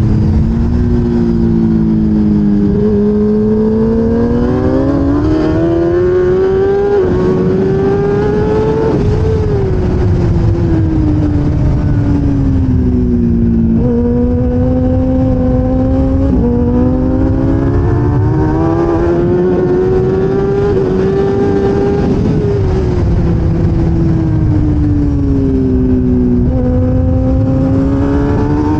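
1000cc race motorcycle engine at high revs, its pitch climbing in steps with each upshift, then falling as it brakes and shifts down for a corner; this happens twice, with a third climb starting near the end. A low rush of wind runs under it.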